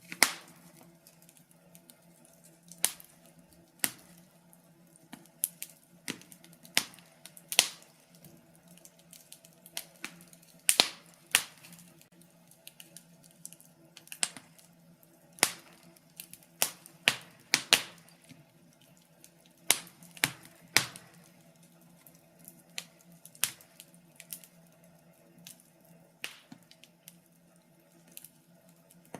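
Wood fire crackling: sharp irregular pops and snaps from burning logs, a few louder cracks among many small ones, over a faint steady low hum.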